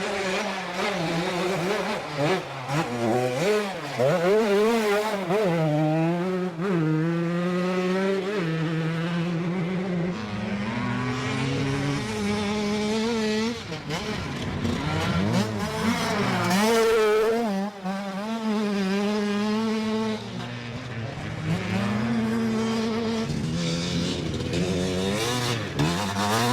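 Dirt bike engines revving hard, the pitch repeatedly climbing and dropping back as the throttle opens and the gears change.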